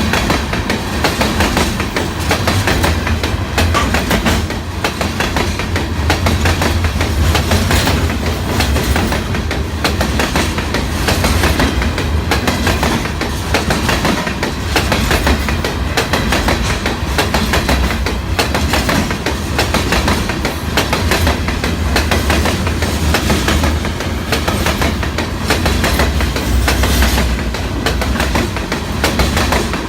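Train passing close by: railroad car wheels clicking over the rail joints in a steady clickety-clack over a continuous low rumble.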